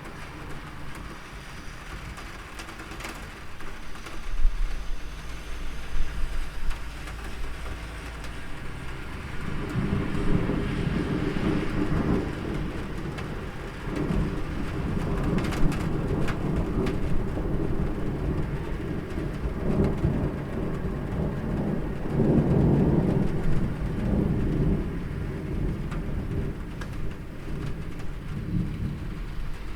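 Steady rain with rolling thunder: a low rumble builds about a third of the way in and swells twice more before fading, with a few sharp cracks along the way.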